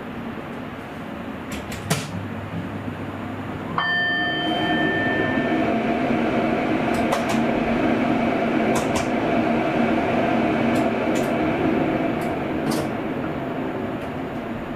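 Sprinter commuter train heard from the driver's cab while running: steady rolling noise with a few sharp clicks from the wheels. About four seconds in, a sudden ringing tone sounds and fades, followed by a steady hum that lasts several seconds before easing off.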